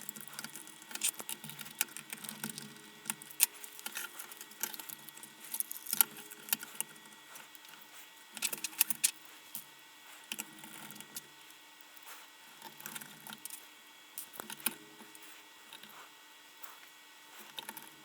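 Light, scattered clicks and rattles of wires and small parts being handled and fitted into a camping lantern's plastic case during reassembly.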